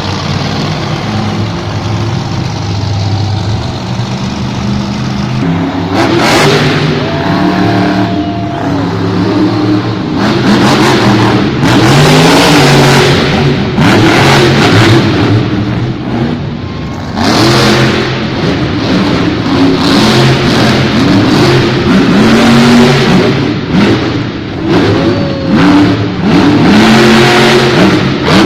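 Monster truck's supercharged V8 engine revving hard, its pitch rising and falling again and again as the throttle is worked.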